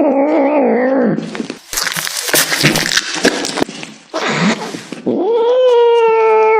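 A cat yowling in long, drawn-out wails: one wavering wail ends about a second in, and another begins about five seconds in, with a stretch of harsh noise in between.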